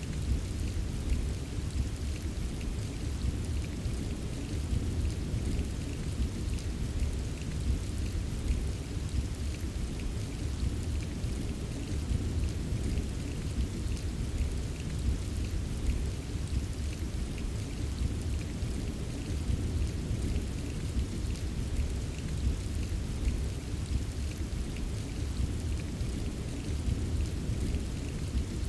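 Steady rain ambience: a constant low rumble under a fine patter of individual drops.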